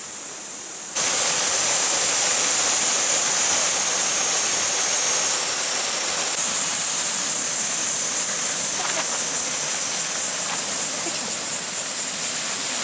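Waterfall rushing in a loud, steady hiss of falling water, jumping suddenly louder about a second in.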